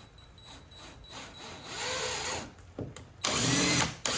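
Power drill drilling holes in short trigger bursts. There is a softer burst about halfway through, then a louder one near the end, with the motor's pitch rising and falling as it speeds up and slows.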